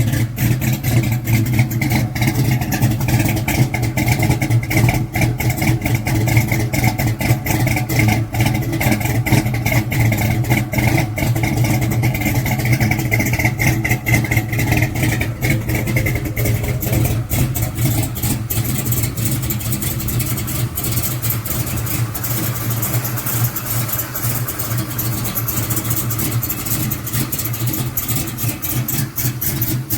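Big-block V8 car engine idling with a choppy, bumping idle through its exhaust.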